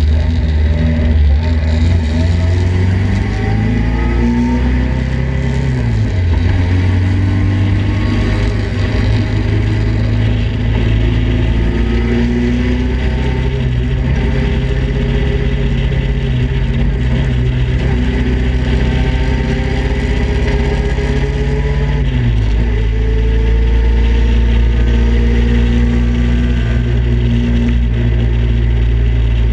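Datsun roadster race car's four-cylinder engine, heard from its open cockpit, accelerating hard through the gears. Its pitch climbs steadily in long pulls and drops sharply at two upshifts, one about six seconds in and one about twenty-two seconds in.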